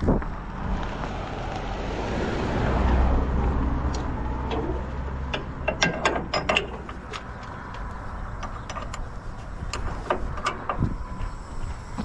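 Forklift engine running with a low rumble that swells about three seconds in, with sharp metal clanks and rattles around six seconds and again near ten seconds.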